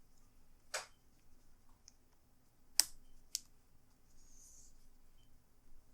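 A few sharp plastic clicks and taps from a pry pick working at the edge of a laptop screen. The loudest click comes near the middle, followed by another about half a second later.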